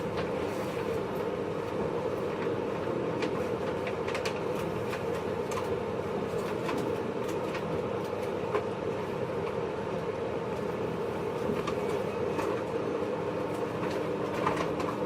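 Cabin noise inside a motor car of a JR East 583 series electric train: a steady rumble with scattered clicks. A steady low hum joins in near the end.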